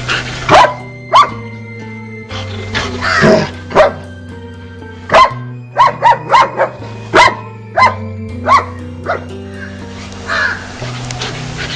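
A dog barking repeatedly in short, sharp barks over background music.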